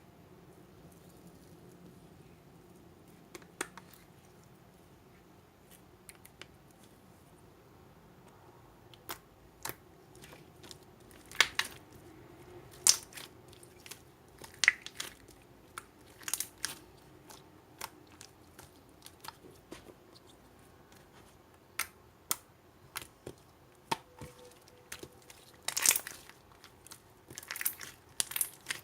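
Hands squeezing and pressing slime, giving irregular sticky clicks and small pops; they are sparse at first and come more often from about a third of the way in.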